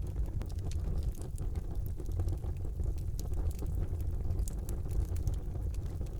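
Wood fire burning in a fireplace: a steady low rumble of flames with scattered small, irregular crackles and pops.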